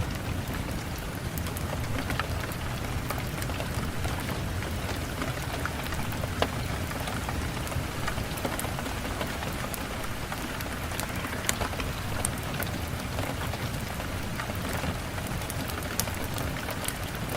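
Steady rain falling, with scattered sharp crackles and pops from a wood fire; one louder pop about six seconds in.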